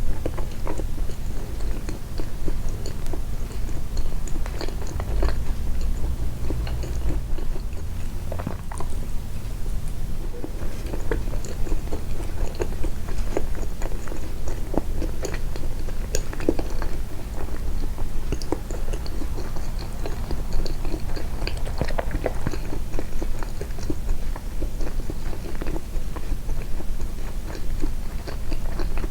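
Close-miked chewing and biting of soft homemade sweets: a steady run of small wet clicks and smacks, with the eating sounds boosted in editing.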